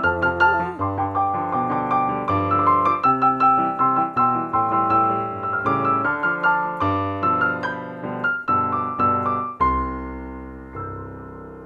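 Piano playing a lively melody with chords, note after note, ending on a chord struck about ten seconds in that is left to ring and fade.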